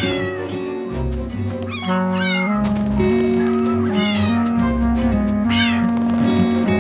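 Cartoon kitten meowing about four times, each meow rising and falling in pitch, over light background music with held notes.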